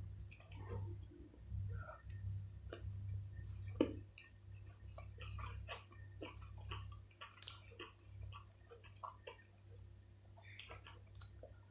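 Close-miked chewing and mouth sounds of a person eating: an irregular run of small clicks and smacks, over a low hum that stops about seven seconds in.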